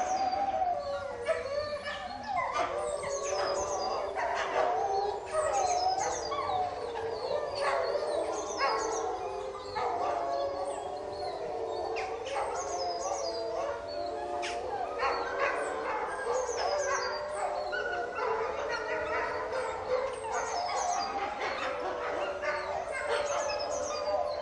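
A wolf pack howling in chorus, several long, wavering howls overlapping one another.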